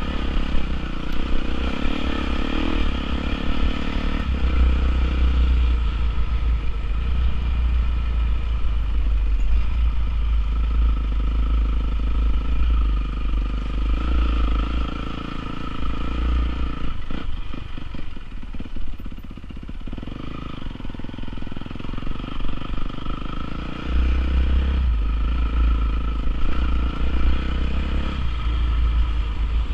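Honda CRF450R single-cylinder four-stroke motocross engine running, its pitch and level rising and falling with the throttle. It eases off for a few seconds past the middle, then picks up again.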